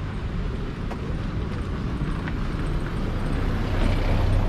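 Motorcycle moving slowly along a road, with engine and road noise and a few faint ticks. A steady low engine hum grows louder near the end.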